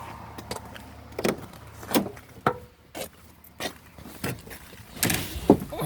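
A series of about ten irregular clicks and knocks from a 1983 Pontiac Firebird's door and cabin as someone climbs into the car. The engine is not yet running.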